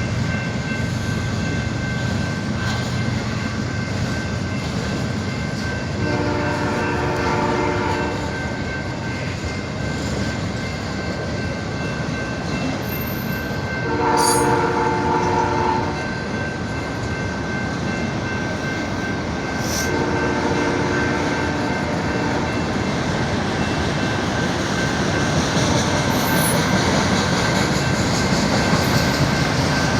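A diesel locomotive's multi-chime air horn sounds three blasts of about two seconds each, the middle one loudest. Under the horn, a slow-moving freight train rumbles steadily.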